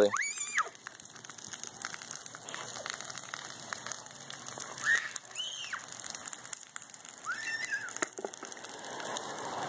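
Steady rain falling, heard as an even patter, with about four short high chirps that rise and fall, one just after the start and three more in the middle.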